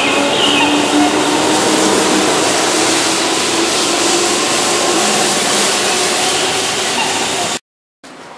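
Keihan Railway electric train running past a station platform: a loud, steady rush of wheels on rails that cuts off abruptly near the end, leaving quieter station sound.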